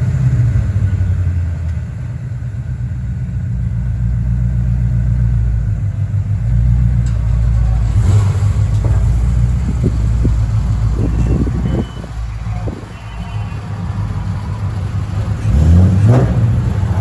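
Shelby GT350R's 5.2-litre flat-plane-crank V8 idling steadily, freshly started on a weak battery. It is blipped up in revs once about a second before the end.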